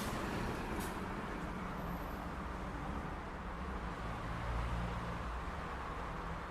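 City street traffic: a steady rush of passing vehicles, with a short hiss about a second in and a vehicle's engine rumble swelling past the middle.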